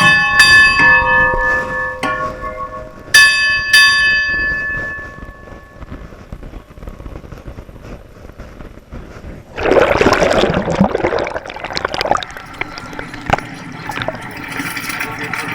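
Bells struck several times in quick succession, each stroke ringing on and fading away over a few seconds. About ten seconds in, a rushing noise lasts for about two seconds.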